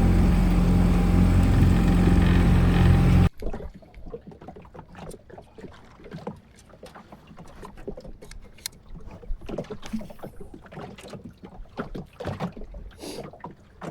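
Boat motor running steadily, cutting off abruptly about three seconds in. After that, only scattered small knocks and clicks.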